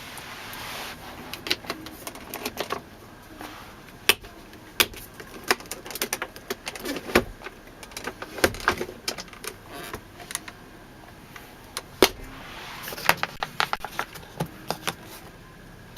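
Irregular clicks of dashboard buttons and switches being pressed in a car's cabin, a couple of dozen sharp clicks spaced unevenly, with brief hisses near the start and about 13 seconds in.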